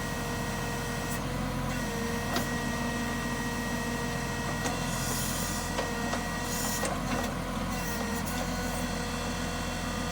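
Excavator running steadily under operation, with a steady high whine over the engine note and a few scattered clicks and clunks.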